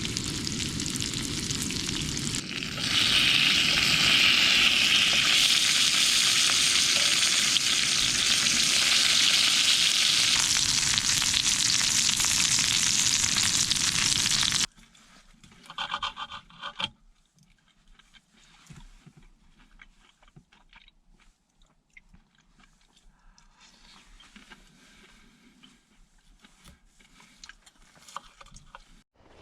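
Lamb chops sizzling loudly in a hot pan: a dense, steady hiss that grows louder about three seconds in, then stops abruptly about halfway. After that there is only a faint background with a few soft clicks.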